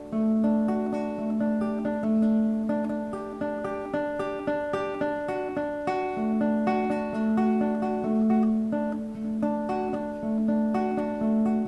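Background music: acoustic guitar, plucked notes over a held low note.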